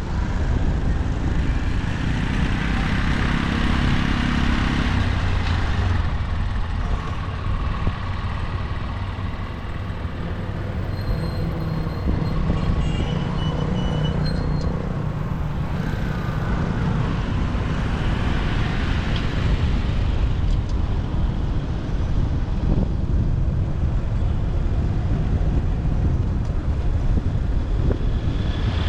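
Motorcycle engine running while riding in city street traffic, with the steady rumble and road noise of other vehicles around it.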